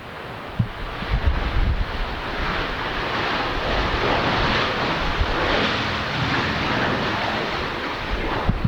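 Airliner engine noise that swells about a second in and holds steady, with wind thumping on the microphone.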